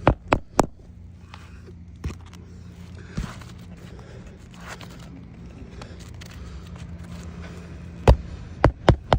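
Hammer driving roofing nails through an asphalt shingle: three quick strikes at the start, single taps about two and three seconds in, and another run of strikes near the end. A steady low hum lies underneath.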